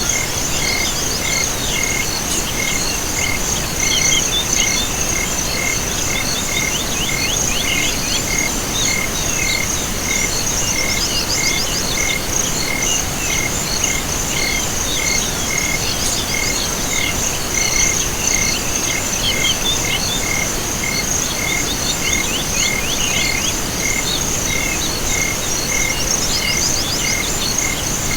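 Chorus of crickets and frogs: a continuous high cricket trill and a regular short chirp repeating about one and a half times a second, with bursts of rapid calls coming and going over a steady hiss.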